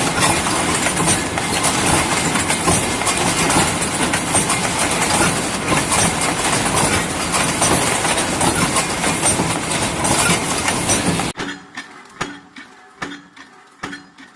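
Factory machinery: a loud, dense clattering din that cuts off abruptly after about eleven seconds, followed by a quieter machine knocking in a steady rhythm of about two strokes a second.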